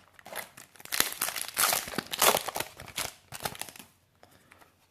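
Foil booster-pack wrapper crinkling and tearing open, a dense run of crackles that dies away near the end.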